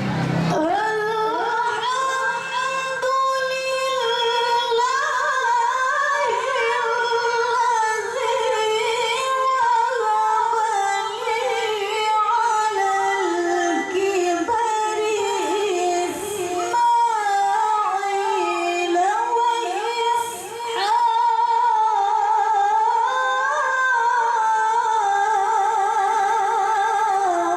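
A woman's high voice chanting Quran recitation (tilawah) in long, held melismatic phrases with ornamented turns in pitch, with a brief breath about twenty seconds in.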